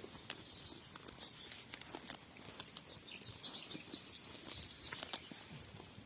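Countryside ambience: irregular light taps and clicks throughout, with faint birds chirping high up around the middle.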